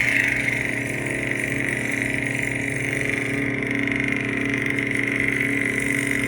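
Lightsaber sound font "Pitch Black" playing its steady idle hum through the saber's speaker: an even, buzzing electric drone with no swings or clashes.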